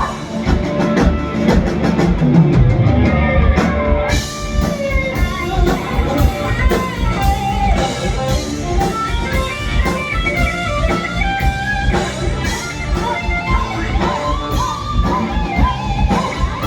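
Rock band playing an instrumental passage between sung verses: a guitar melody over bass and a steady drum beat.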